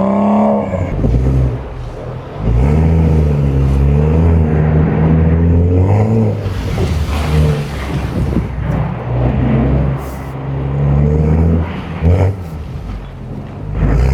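BMW M235i's turbocharged N55 straight-six engine revving hard, its pitch climbing and dropping again and again as the throttle is worked, with a rush of noise about seven seconds in.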